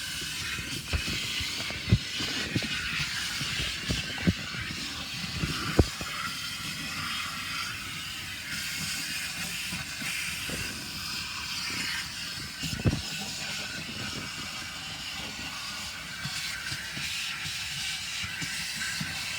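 Automatic car wash equipment hissing steadily against the car, with scattered knocks and thumps.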